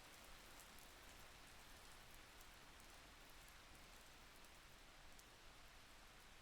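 Faint, steady rain falling, with scattered light drop ticks.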